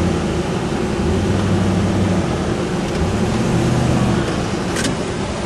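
A vehicle engine running with a steady low hum whose pitch shifts a few times, over constant road and wind noise. A short sharp click near the end.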